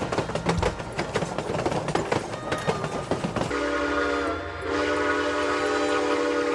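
Narrow-gauge steam locomotive working with a rapid, clattering beat. About three and a half seconds in, its chime whistle sounds, a short blast followed by a long, steady one.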